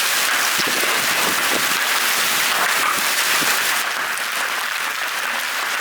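Heavy hail falling and pounding on hard surfaces: a dense, loud patter with many separate thuds from larger stones mixed in, heaviest in the first few seconds.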